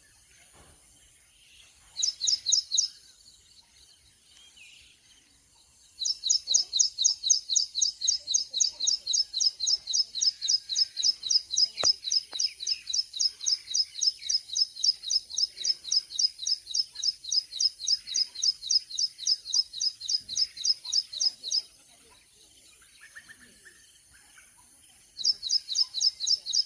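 A bird repeating one high, sharp chirping note about four times a second in runs: a short run about two seconds in, a long unbroken run of some fifteen seconds from about six seconds in, and another run starting near the end. A faint, steady high hiss sits underneath.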